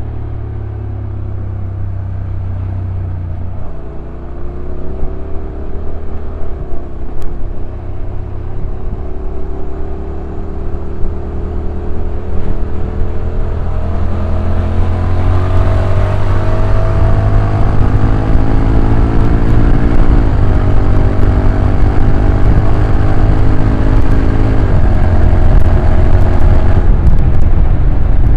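Honda NC750X DCT's parallel-twin engine under way, revs climbing steadily as the bike gathers speed. The dual-clutch gearbox shifts up about two-thirds of the way in and again near the end. Wind noise grows louder on the microphone as the speed rises.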